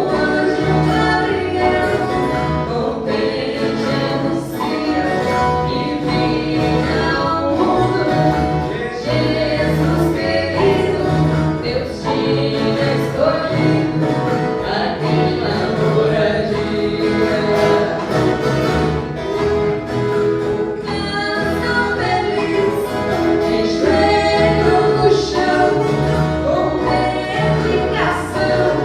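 A viola caipira orchestra playing a Christmas song, with a group of voices singing together over a steady rhythmic bass.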